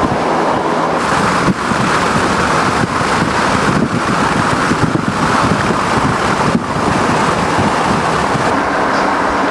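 Steady wind noise on the microphone, with a low engine hum beneath it.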